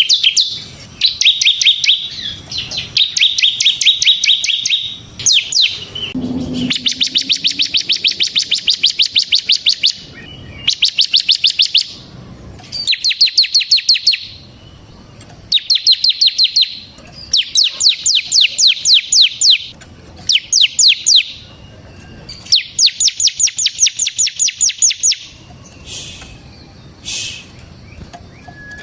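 Bar-winged prinia (ciblek) singing its rapid rattling trill. The trills are fast runs of the same sharp note, about ten a second, lasting one to three seconds each and separated by short pauses.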